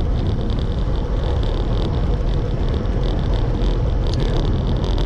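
Steady wind rush on the microphone and tyre noise from a road bicycle rolling along smooth pavement at speed.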